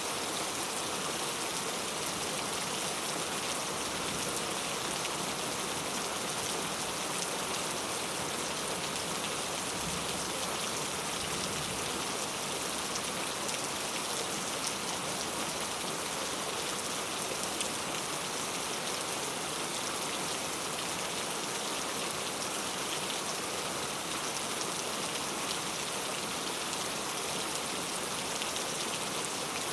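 Heavy rain falling steadily on hard street surfaces: a dense, even patter of drops with no lulls.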